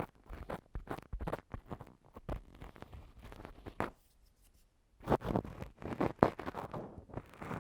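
Ear-cleaning ASMR: a metal ear pick or cotton swab scratching and rubbing against the microphone in quick strokes. The strokes pause briefly near the middle, then resume more densely and louder.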